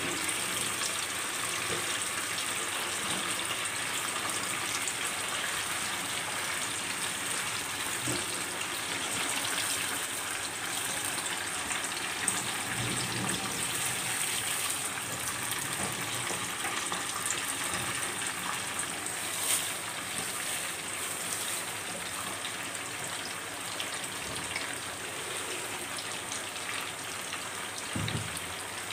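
Chicken pieces frying in hot oil in a wok, being browned: a steady, dense sizzling crackle. A spatula turns the pieces, with a few sharp taps against the pan.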